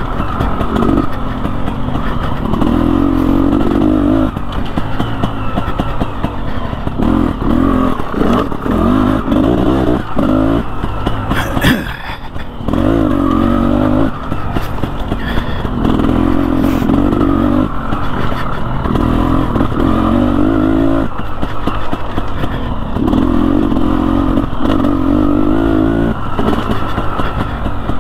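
KTM Freeride 250R two-stroke engine being ridden off-road, revving up in bursts and easing off again and again, picked up by a helmet-mounted microphone. A sharp knock a little under halfway through is followed by a brief drop in the engine sound.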